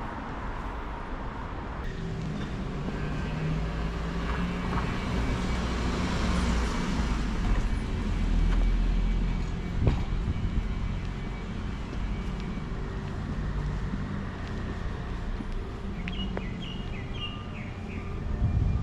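Road traffic with a vehicle passing close by, swelling to its loudest about eight seconds in. There is a sharp click about ten seconds in, and birds chirp briefly near the end.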